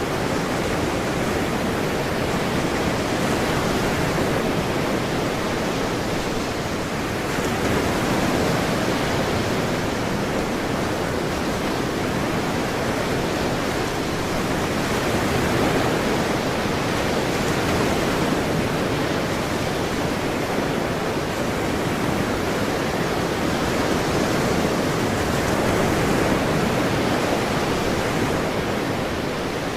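Ocean waves and surf, a continuous wash that rises and falls gently in slow swells.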